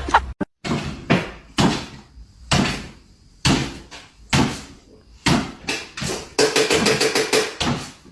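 Repeated sharp knocks or bangs, roughly one a second, each ringing briefly, with a quick flurry of knocks near the end.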